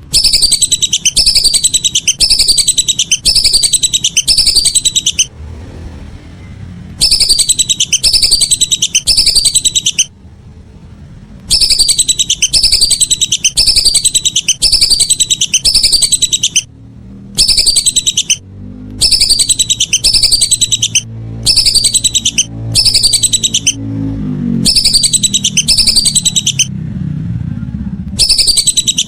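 Whistling ducks (belibis) calling: a rapid series of high, downward-sliding whistles in bouts of a few seconds, broken by short pauses.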